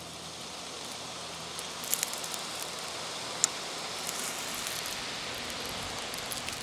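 Steady rustling of leaves and undergrowth, with a few light snaps and one sharp click about three and a half seconds in.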